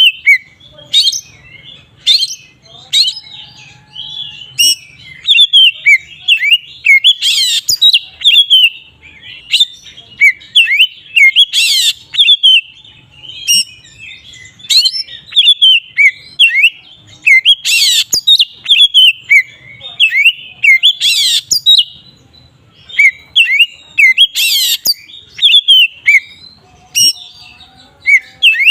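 Oriental magpie-robin (kacer) singing continuously in the open, full-throated 'ngeplong' style: a fast run of varied whistled chirps, broken every few seconds by a loud, sharp note.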